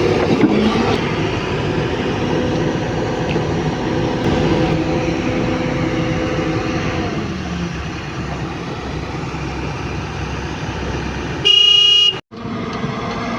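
Heavy diesel machinery engine running steadily, its note dropping about seven seconds in. Near the end comes a loud vehicle horn blast lasting under a second, then a brief cut in the sound.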